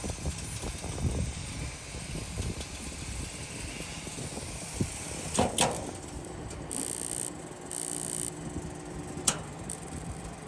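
Raypak gas heater running with a low, uneven rumble. A sharp ringing click comes about halfway through, a second click near the end, and between them two short bursts of high hiss.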